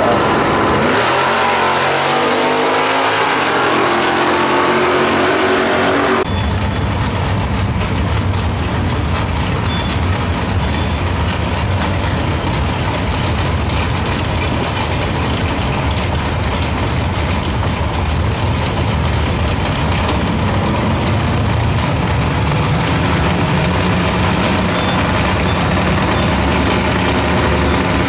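A pair of drag cars launching off the starting line and pulling away down the strip, their engine sound falling in pitch over the first few seconds. About six seconds in it cuts off and gives way to another pair of drag cars' engines idling steadily at the starting line.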